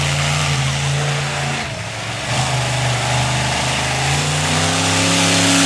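Monster truck engine revving hard: the pitch climbs, drops briefly, then climbs higher again and holds under load, with a loud rushing exhaust noise.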